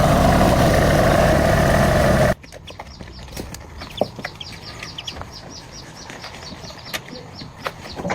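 Truck engine running steadily, cutting off abruptly about two seconds in. Then a much quieter stretch: a bird chirping rapidly, about four short descending chirps a second, with scattered light clicks.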